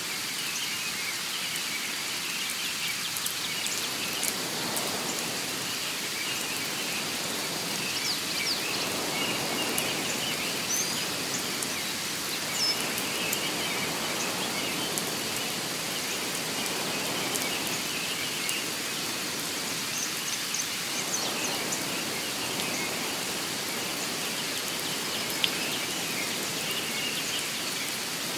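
Steady rain pattering, with a few faint high bird chirps scattered through it.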